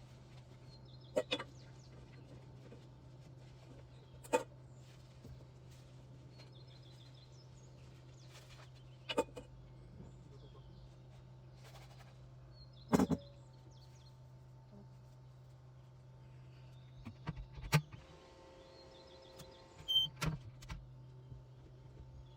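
Six sharp knocks spaced a few seconds apart over a steady low hum, with faint bird chirps between them.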